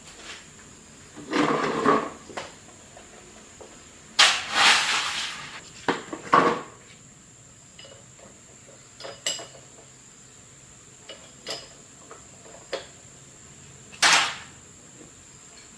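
Scattered knocks, clicks and short clattering scrapes of hard objects being handled, such as tools and parts being picked up and put down, with the longest scrape about four seconds in.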